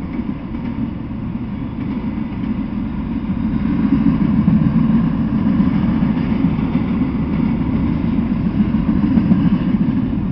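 Freight train of autorack cars rolling past, a steady rumble of wheels on rails, growing louder from about four seconds in.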